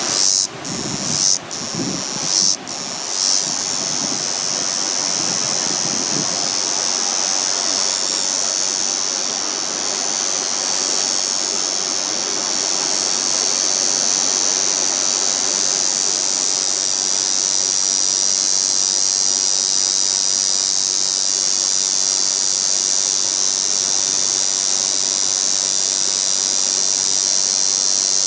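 Cicadas singing in a steady, high, hissing drone, with a few sharp knocks in the first three seconds.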